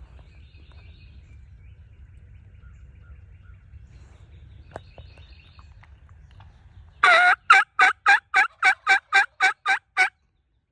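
A loud series of about eleven turkey yelps, roughly three a second, starting about seven seconds in and lasting about three seconds. Before it there is only a low rumble of wind and handling noise with faint songbird chirps.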